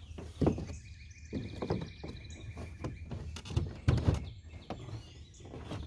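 Several knocks and clunks of pipe pieces and elbow and T fittings being handled and pushed together, loudest about half a second in and around four seconds in, with birds chirping in the background.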